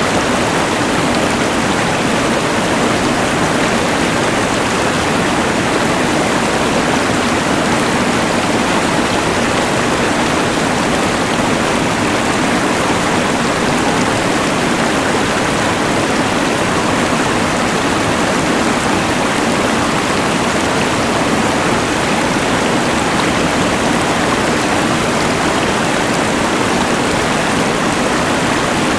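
Steady, unbroken rush of a mountain river blended with the even hiss of a LectroFan white noise machine.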